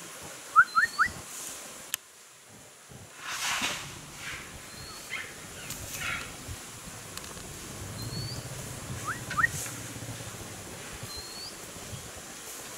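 Wild birds calling over an outdoor background: loud, quick upward whistled chirps come in a burst of three early on and a pair near the end, while a thin high call repeats every two to three seconds. Brief rustling noises come in between.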